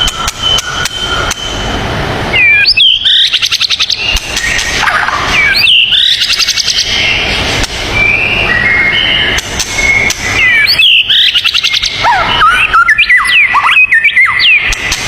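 Songbirds singing: loud whistled notes sweeping up and down and fast buzzy trills, in repeated phrases with held whistles between them.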